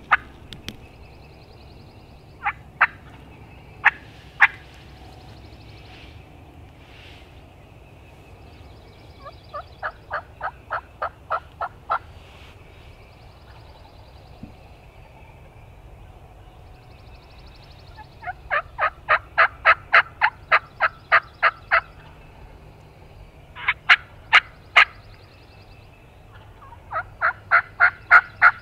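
Turkey yelping in several runs of evenly spaced notes, about four a second. The longest run lasts about four seconds, and the runs are separated by pauses of several seconds: the calling used to get a roosted gobbler to answer.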